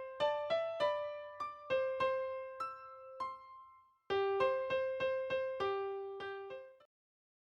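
Background music: an electric piano melody of single struck notes, each ringing out. It pauses briefly about halfway and stops shortly before the end.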